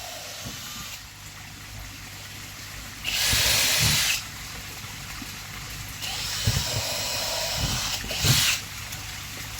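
Power drill running in bursts while pre-drilling holes in plastic panel strips: one burst of about a second, then a longer, weaker run of about two seconds that ends in a brief loud spurt.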